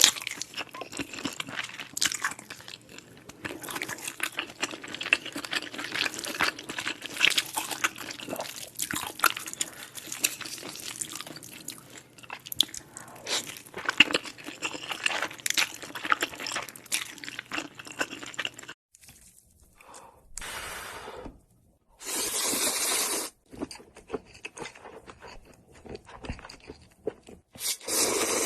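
Close-miked eating sounds: dense crunching and chewing with many small crackles. About two-thirds of the way through they stop abruptly, giving way to two longer hissy noises of about a second each and a few scattered clicks.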